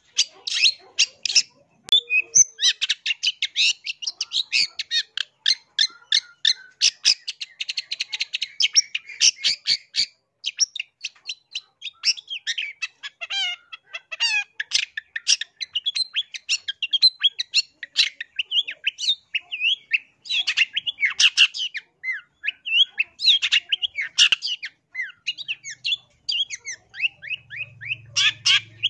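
Long-tailed shrike (cendet) singing a continuous, rapid chattering song: runs of short, sharp notes mixed with quick rising and falling chirps, with hardly a pause.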